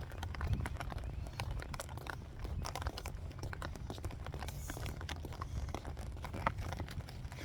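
Rain pattering on an umbrella overhead in many irregular taps and ticks, over a steady low rumble on the phone's microphone.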